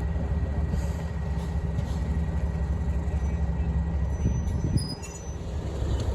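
English Electric Class 37 diesel locomotives working hard under power, a steady low engine drone with the rumble of the moving train. About four to five seconds in the drone eases and a few brief high squeals come through.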